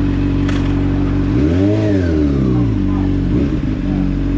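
Honda CBR600RR's inline-four engine idling, blipped once about a second and a half in: the revs rise and fall back to idle. A smaller blip follows a second or so later.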